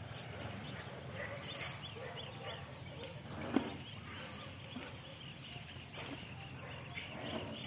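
Small birds chirping over and over in short arched calls, with a low steady background hum. There are a few soft knocks, and one sharp knock about three and a half seconds in.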